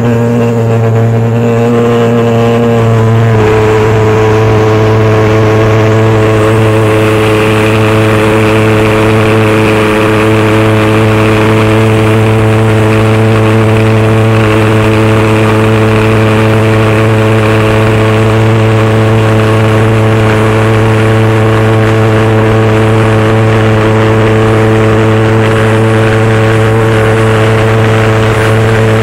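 Pulse jet engine on a motorcycle running with a loud, steady drone, its tone settling slightly about three seconds in and then holding.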